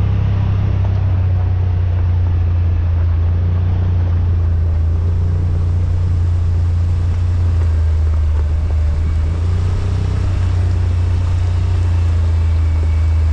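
Yamaha RMAX side-by-side's engine running at a steady speed while driving, a loud low drone with road and wind noise over it.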